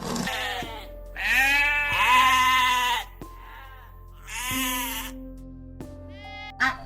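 Sheep bleating: two long, wavering bleats, the first a little over a second in and the second, shorter one near the middle, over background music.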